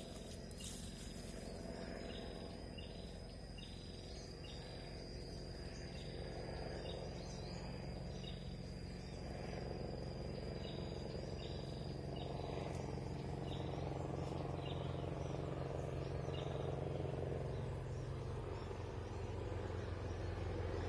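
Forest ambience: a steady high insect drone that stops about two-thirds of the way through, and a bird giving short chirps about once a second. Under them a low engine hum grows louder toward the end.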